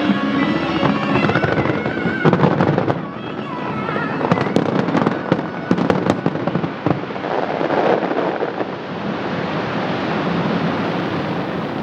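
Fireworks bursting and crackling, with show music playing in the first few seconds. A rapid run of sharp crackling pops comes in the middle, and then a dense, fizzing crackle slowly fades away.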